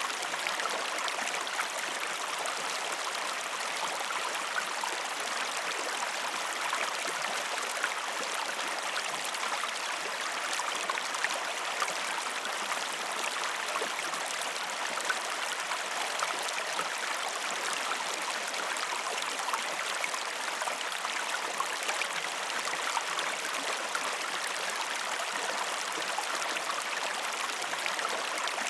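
Small waterfall and the stream below it: steady splashing and rushing water with many small splashes.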